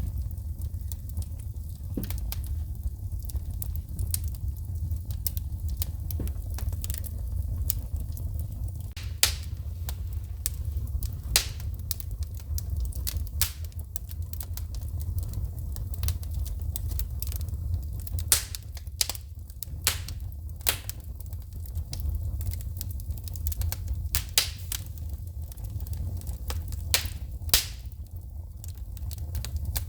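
Wood fire in a fireplace crackling, with irregular sharp pops and snaps as sparks shoot from the burning logs, and a steady low rumble underneath. Several louder pops stand out in the second half.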